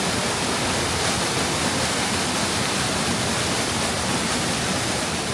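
Steady rushing of water pouring down a cascading mountain-brook waterfall.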